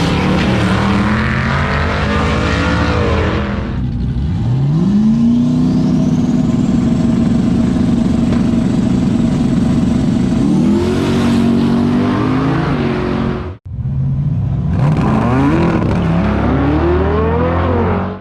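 Race car engines at full throttle on drag strip passes. The pitch sweeps up through the gears, climbs steeply about four seconds in and holds high for several seconds before changing again. The sound cuts off suddenly about two-thirds of the way through, and another run of rising engine sweeps follows.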